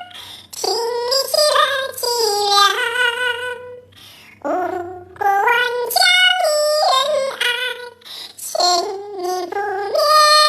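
Crested myna mimicking a sung melody in a high, voice-like tone, in several phrases of held and stepped notes with short pauses between them.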